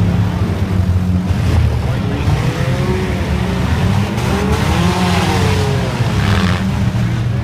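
Demolition derby cars' engines running loud, with several rising-and-falling revs near the middle.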